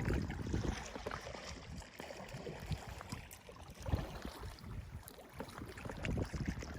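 Wind gusting on the microphone, an uneven low rumble that swells and drops, with a few faint knocks.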